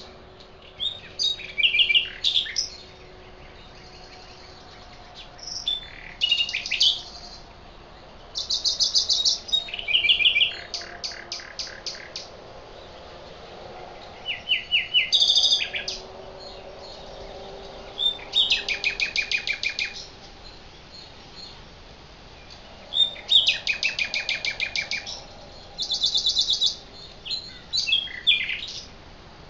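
Songbirds singing in short, high phrases every couple of seconds, some of them fast trills of quickly repeated notes.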